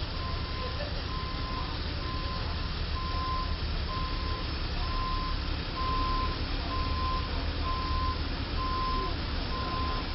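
A truck's reversing alarm beeping about once a second, over the low rumble of engines and traffic.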